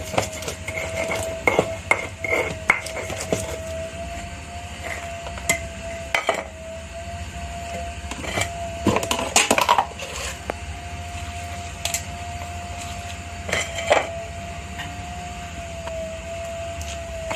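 Stone pestle knocking and grinding spices against a stone mortar: irregular knocks and scrapes, a few louder clusters around the middle and near the end, over a steady faint hum.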